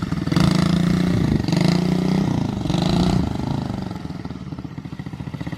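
Chinese 125cc pit bike engine revving in several rising and falling swells, then easing off toward idle near the end.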